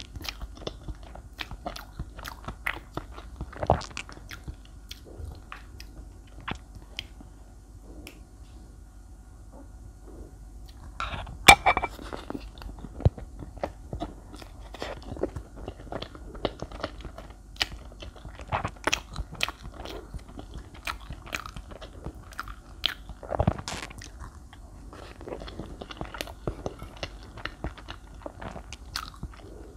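Close-miked chewing of soft chocolate layer cake soaked in milk: wet mouth sounds and many small, sharp smacks and clicks, with a louder sharp sound about eleven seconds in and another near twenty-three seconds.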